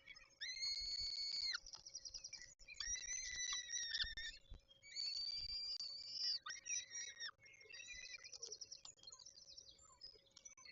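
Peregrine falcons calling at the nest: a string of harsh, drawn-out calls about a second each, broken by quick rapid-fire chattering, with a faint steady hum beneath.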